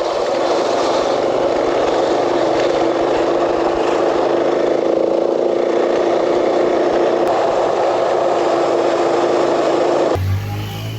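KTM 500 single-cylinder dual-sport motorcycle engine running at a steady cruising speed with wind rush while riding; the sound cuts off abruptly about ten seconds in.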